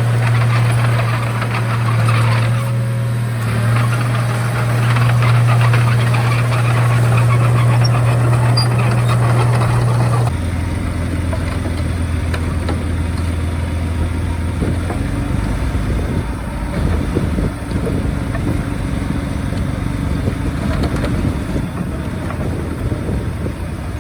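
Heavy diesel engine of earthmoving machinery running steadily under load, with a mechanical clatter over a low hum; about ten seconds in the sound changes abruptly to a lower, steadier engine hum.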